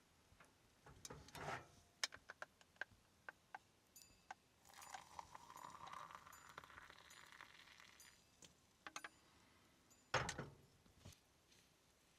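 Faint handling noises: a run of small sharp clicks and rattles, a rustling stretch in the middle, and a louder thump about ten seconds in.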